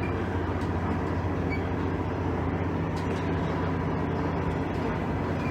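Interior sound of a KiHa 110 series diesel railcar: the underfloor diesel engine running with a steady, even hum that neither rises nor falls.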